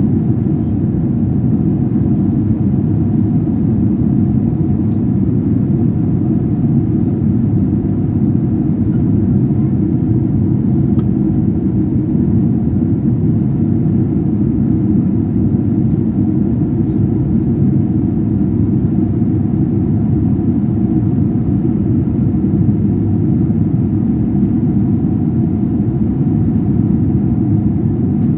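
Steady low rumble of an airliner in flight, engines and rushing air heard inside the passenger cabin.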